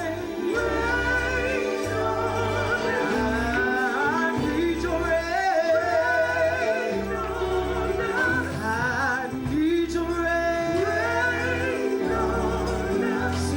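Gospel praise team singing with wavering, melismatic vocal lines over an instrumental backing, with a low bass line changing notes every second or two.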